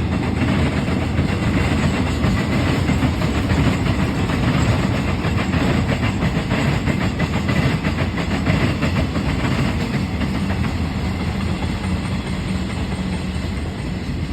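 A Thai train running along the track: a steady rumble of wheels on rails that eases off slightly near the end.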